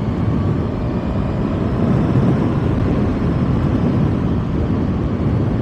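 Kawasaki ZX-6R's inline-four engine running steadily while riding, in its low power mode, mixed with wind rushing on the microphone.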